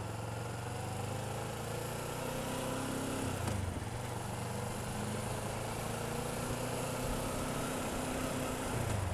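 Kawasaki Ninja 650R parallel-twin engine running steadily at low revs, its note dipping and shifting briefly about three and a half seconds in.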